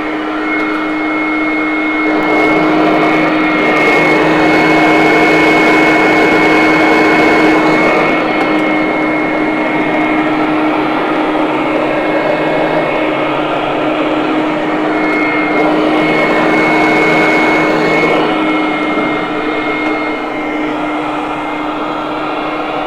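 Hoover Conquest upright vacuum running, its motor holding a steady hum with a thin high whine while the brush roll works into the carpet. The sound swells and eases slightly as the vacuum is worked over the floor.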